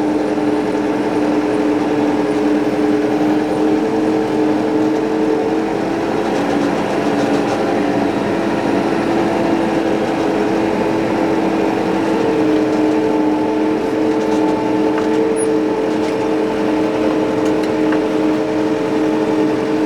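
Diesel tractor engine running steadily with the throttle raised, its pitch shifting slightly a couple of times as it creeps along.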